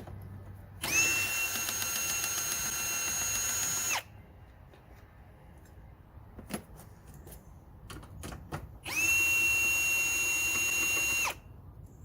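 Power drill/driver run twice, each run spinning up to a steady whine and holding it, the first about three seconds long and the second about two, as fasteners are backed out of the car's front end. Small clicks and knocks of handling parts sound between the two runs.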